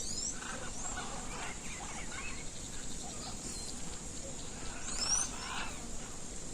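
Birds calling, with sharp rising chirps at the start and again about five seconds in, over a steady high-pitched hum.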